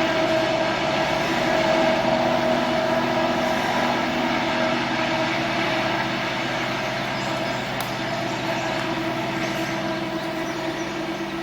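Freight train rolling past, a steady rail noise with several steady tones held through it, easing slightly over the last few seconds.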